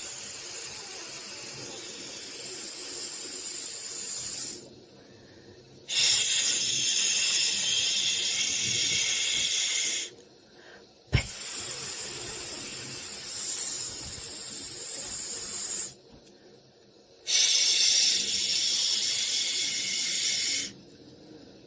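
White-noise hiss, like a long "shhh", coming in four bursts of about four seconds each with short breaks between: a soothing sound for settling a baby to sleep.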